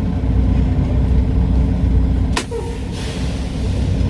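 Semi-truck diesel engine idling steadily, heard from inside the cab. About two and a half seconds in there is a single sharp click, followed by a short stretch of hissing.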